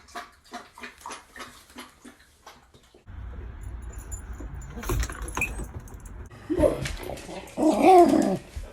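Pet dog sounds: a quick run of clicks and jangles, like a dog's collar tags, for the first three seconds. After that, a dog gives rising and falling vocal sounds near the end.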